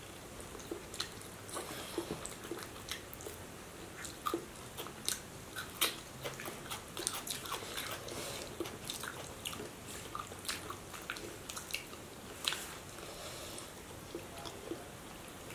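People eating fried fish with their hands: chewing and mouth sounds with irregular sharp clicks and smacks, the loudest about six seconds in and again near twelve and a half seconds.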